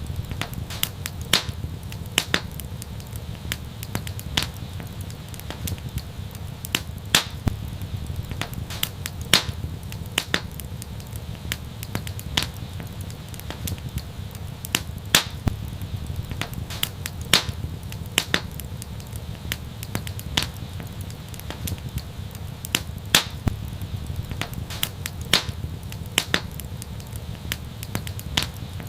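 Wood fire crackling: sharp, irregular pops and snaps over a steady low rumble of flames.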